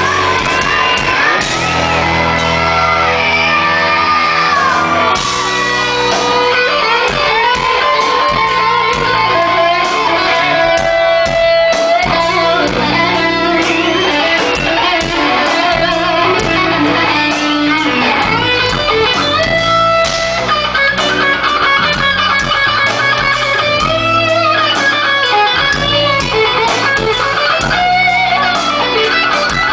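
Live rock band playing, with electric guitar leading over bass and drums.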